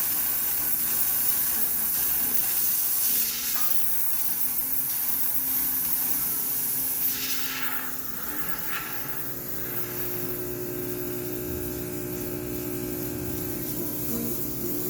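High-pressure steam cleaner jetting steam, a steady hiss that weakens about seven seconds in after a couple of short spurts, leaving a steady hum with several tones.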